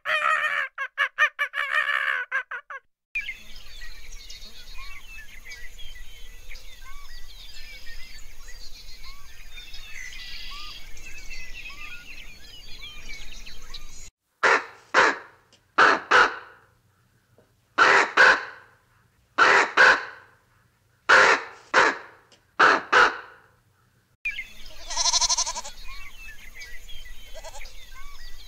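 Geese honking: about ten loud honks over some ten seconds, several in quick pairs. Before them, soft bird chirps over a low hum, and at the very start a fast run of rapid pulsed calls.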